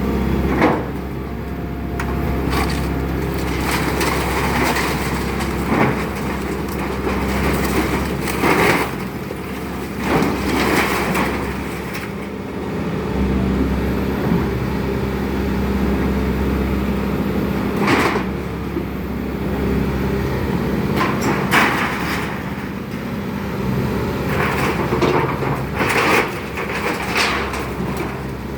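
Excavator engine running steadily while the machine breaks up a wooden house, with repeated sharp cracks and crunches of splintering wood and debris.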